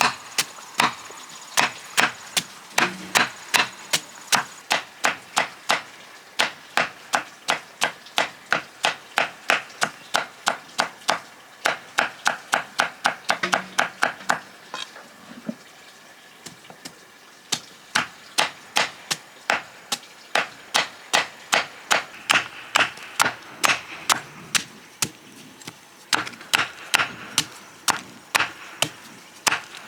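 Blade chopping steadily onto a wooden block, about three to four strokes a second, with a short pause about halfway through.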